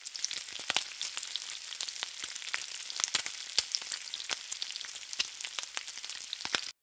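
Food frying in hot oil: a steady sizzle with many sharp pops and crackles, cutting off abruptly near the end.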